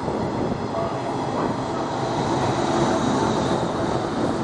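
JR West 201 series eight-car electric train passing through a station without stopping, its wheels and running gear making a steady noise on the rails.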